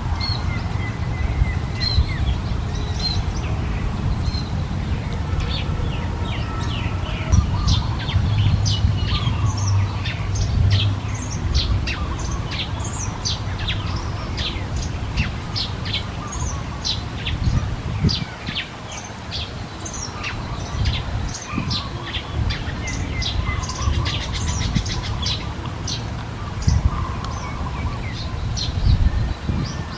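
Small birds chirping: many short, quick high chirps overlapping throughout, over a steady low rumble.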